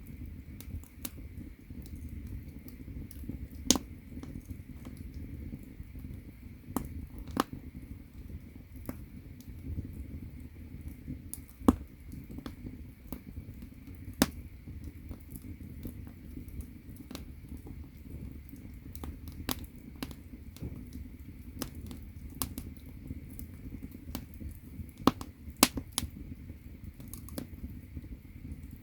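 Firewood burning in a traditional Korean agungi firebox, crackling with irregular sharp pops over a steady low rumble of the fire.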